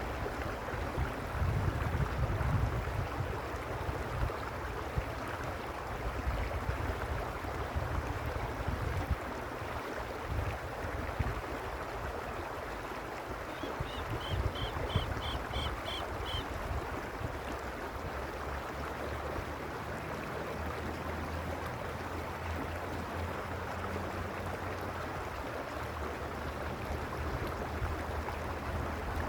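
Mountain stream running steadily over stones, a constant rushing and babbling, with a low rumble in the first several seconds. About halfway through, a small bird gives a quick run of about eight short high notes.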